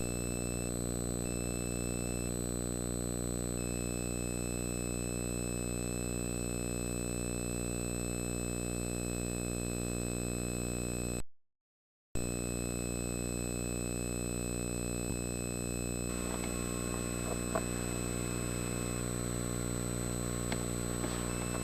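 Steady electrical hum with a thin high whine above it, cutting out completely for about a second midway. Faint clicks and rustling come in over the hum in the last few seconds.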